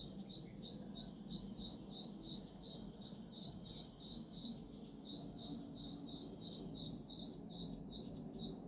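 A small bird chirping in a fast, regular series of short high notes, about three a second, with a brief pause about halfway through.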